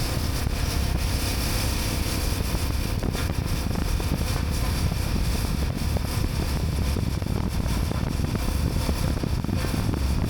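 Motorcycle on the move, its engine and road noise running steadily under wind buffeting the microphone.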